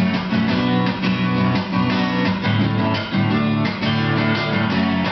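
Acoustic guitars strumming chords in a steady rhythm, an instrumental passage between sung verses.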